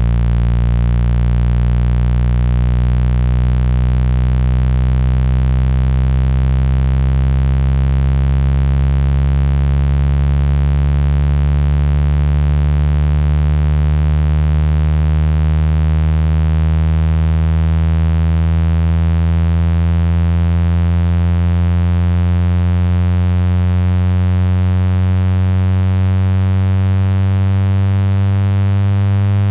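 Synthesized low buzzing tone with many overtones, played loud as a speaker-cleaning tone to shake water and dust out of a phone speaker. It glides slowly and steadily upward in pitch.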